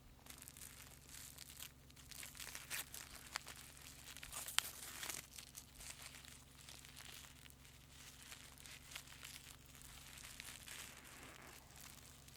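Faint rustling and scraping of hand work, with a scatter of small sharp clicks, the sharpest a little past the middle, over a steady low hum.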